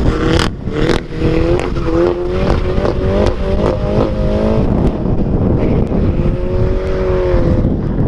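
Mini F56 Challenge 210's turbocharged four-cylinder engine and exhaust accelerating hard away from standstill, the note climbing and dropping back at each quick upshift. Two sharp cracks sound near the start, and heavy wind rumble on the microphone runs underneath.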